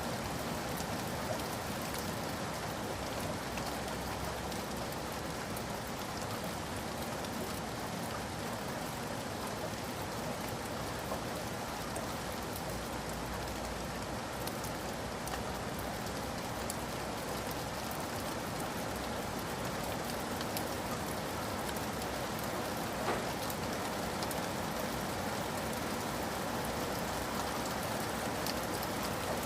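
Steady rain falling, with an even hiss and scattered drops ticking on a surface.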